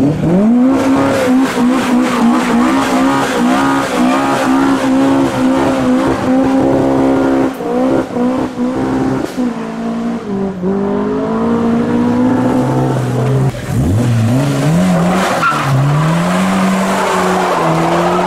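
A car engine revved hard and held at high revs, its pitch dipping sharply twice and climbing back, with tyres squealing under wheelspin.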